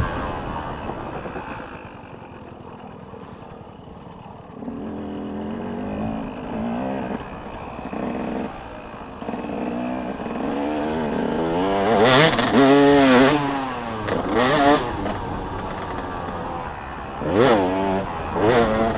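Motocross bikes revving and passing one after another, their engine pitch rising and falling as they accelerate and shift. It is quieter early on, with the loudest pass about two-thirds of the way through and shorter passes after it.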